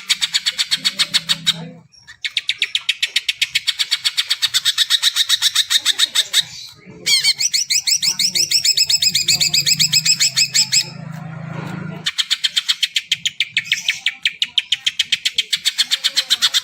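Cucak ijo (green leafbird) singing in fast runs of repeated high notes, about ten a second, with brief breaks about two, seven and twelve seconds in. The middle run is a string of quick rising notes. The song is a masteran recording used to prompt other cucak ijo to sing.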